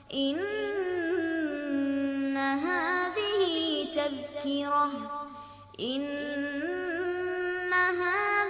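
A child's voice reciting the Qur'an in melodic tartil style, drawing out long vowels with ornamented turns of pitch. Two long phrases, with a short break about five and a half seconds in.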